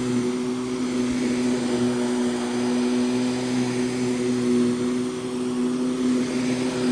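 Vacuum cleaner running with a steady, constant-pitched motor hum as it is worked over the back of a rug laid face down.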